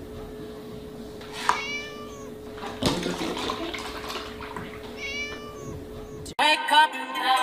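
Kitten meowing twice over a steady hum, with a knock about three seconds in as the milk carton tips, then milk pouring and splashing into a plastic tub. Music cuts in near the end.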